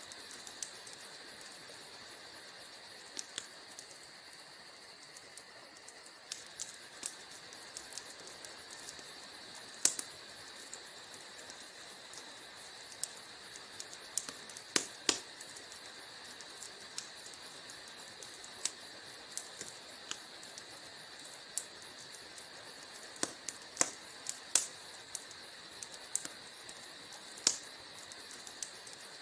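Wood fire in a fireplace crackling: irregular sharp pops and snaps of burning logs, a few louder ones scattered through, over a steady high hiss.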